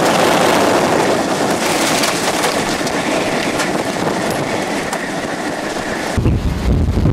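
Tornado wind roaring around a storm-chase vehicle, a loud, steady rushing like a passing freight train. About six seconds in it changes abruptly to a heavy low rumble of wind buffeting the microphone.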